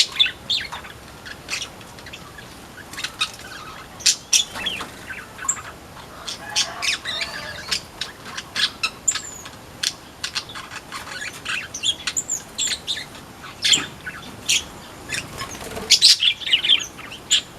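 Flamboyan birds in an aviary chirping: many short, high calls overlapping, coming thick and fast near the end.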